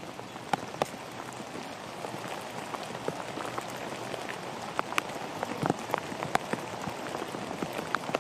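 Steady rain falling: an even hiss with many sharp ticks of drops striking close by.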